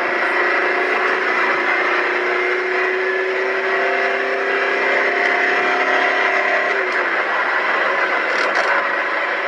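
Mercedes-Benz W123 300D's 3-litre inline-five diesel engine pulling under full acceleration, heard from inside the cabin. Its note climbs slowly and steadily.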